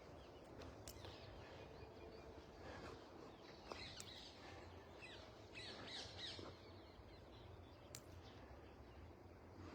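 Faint birds chirping over quiet outdoor background noise, with small clusters of calls about four seconds in and again around six seconds, and a few faint clicks.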